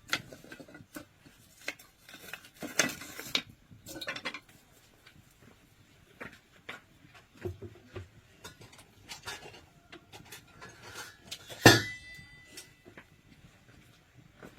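Dishes and utensils clinking and knocking as they are handled, in scattered short strokes. About twelve seconds in comes one loud metallic clang that rings briefly.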